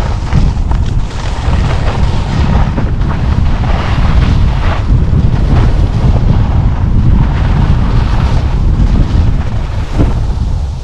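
Heavy wind buffeting on the camera microphone while skiing fast downhill, with the hiss and scrape of skis on snow; it eases off right at the end as the skier slows.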